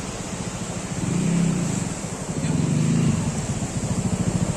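Motorcycle engine running with a fast, even pulsing beat, the note swelling twice as it rises and falls.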